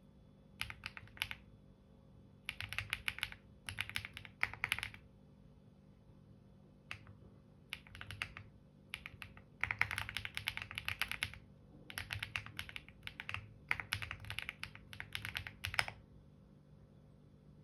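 Computer keyboard typing in quick bursts of rapid key clicks, with short pauses between words and phrases.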